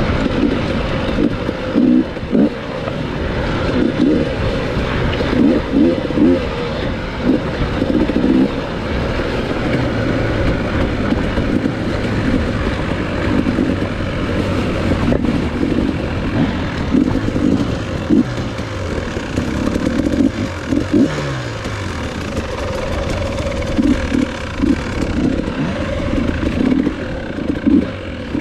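Enduro dirt bike engine running under load on a trail ride, revs surging up and down over and over, with one clear drop in revs about two-thirds of the way through, amid rattling and clatter.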